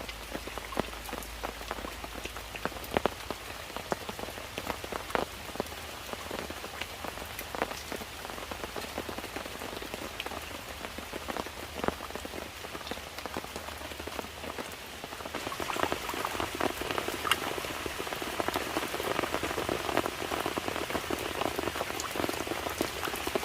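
Rain falling, with many separate drops striking a surface over a steady patter. About two-thirds of the way through the sound grows louder and fuller.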